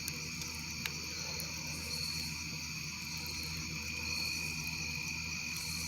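Crickets chirring steadily in the background, with a single faint click a little under a second in.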